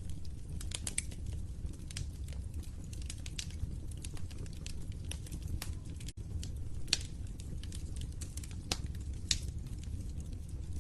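Wood fire crackling in a fireplace: a steady low rumble of flames under irregular sharp pops and snaps of burning wood. The sound drops out for a split second about six seconds in.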